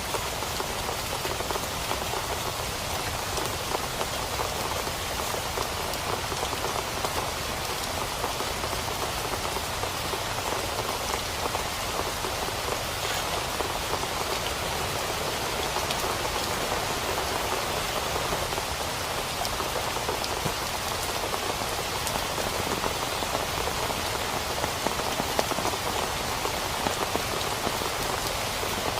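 Steady, dense rain hitting a tent, countless individual drop ticks merging into an even hiss.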